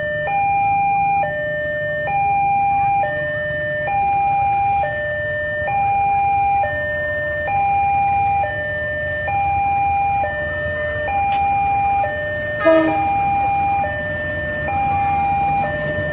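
Two-tone electronic warning alarm, switching between a low and a high tone about once a second, over a low rumble. A sharp click and then a brief louder burst come about three-quarters of the way through.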